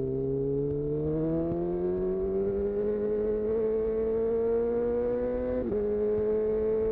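2018 Honda CB1000R's inline-four engine through a full-system Black Widow exhaust, pulling under throttle with the revs climbing gradually. About five and a half seconds in the sound breaks for an instant, a quickshifter upshift, and then holds steady at a slightly lower pitch.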